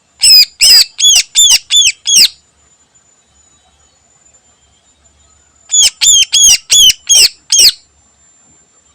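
Greater green leafbird (cucak ijo) calling: two bursts of loud, repeated down-slurred notes at about three a second, about six notes each, the second starting after a pause of about three seconds.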